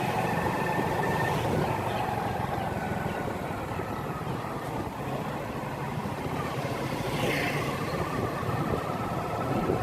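Motorcycle engine running at a steady pace on the road, with the noise of riding over a slightly rough surface.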